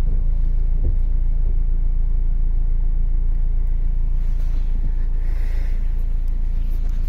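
Steady low rumble of a car with its engine running, heard inside the car's cabin.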